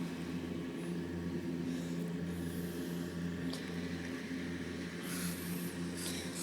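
A steady low mechanical hum at an even pitch, with a few soft rustles near the end.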